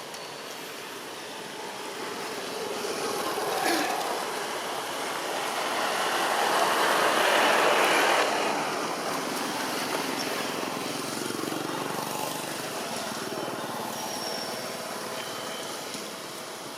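A road vehicle passing: a rush of noise that grows louder, peaks about halfway through, then slowly fades.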